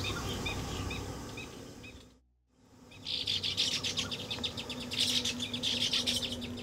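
Birds chirping: single short chirps repeat at a steady pace, then break off about two seconds in. After the break comes a dense, fast chatter of many birds calling at once.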